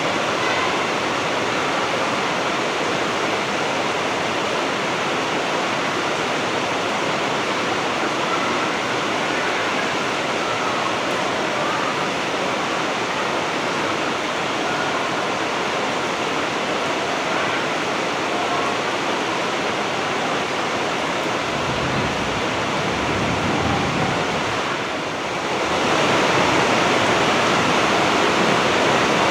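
Heavy rain falling in a steady downpour. About 25 seconds in it dips briefly, then comes back a little louder.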